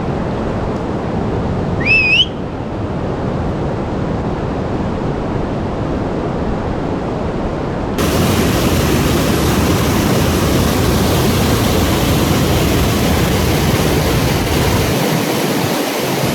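Rushing river water at a rapid, a steady rush. A single short rising whistle comes about two seconds in. The rush turns louder and brighter about eight seconds in.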